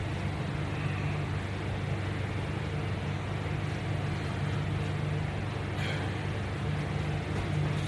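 Steady low hum, with a brief hiss about six seconds in.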